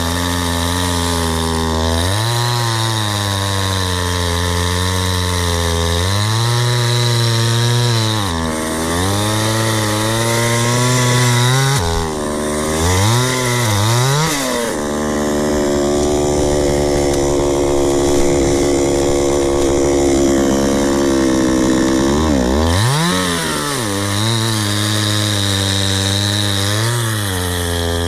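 Two-stroke chainsaw cutting firewood logs. The engine note keeps dropping as the chain bites and loads up, then climbs back as it frees. Midway it runs for several seconds at a steady, higher speed.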